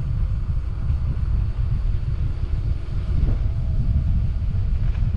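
Wind buffeting the microphone of a helmet-mounted GoPro Max on a bicycle descent in strong wind: a loud, steady low rumble that churns unevenly.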